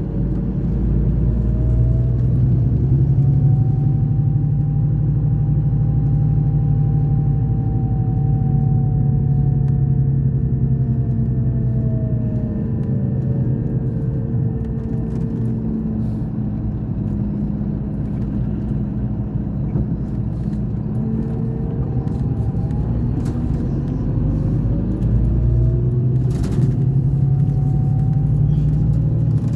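Scania K420 coach's diesel engine running with a steady low rumble. A whine rises and holds, then falls away by about the middle, and rises again near the end.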